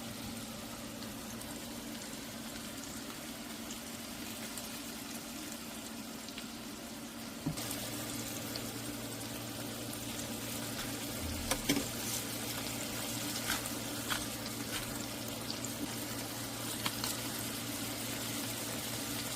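Steak sizzling in a frying pan: a steady hiss that gets a little louder about seven and a half seconds in, with scattered spitting pops in the second half.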